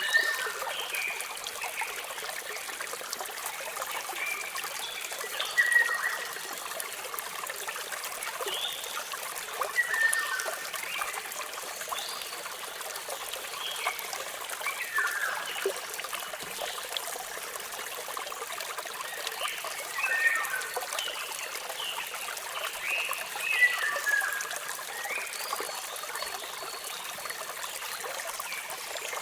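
Steady rush of falling water with birds chirping every few seconds: short whistled notes, several sliding downward.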